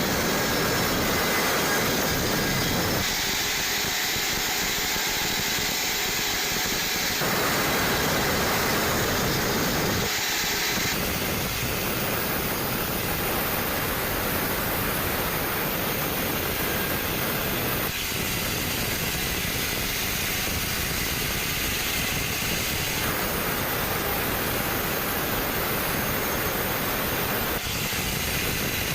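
Band sawmill running, a steady loud machine noise that shifts abruptly in character several times.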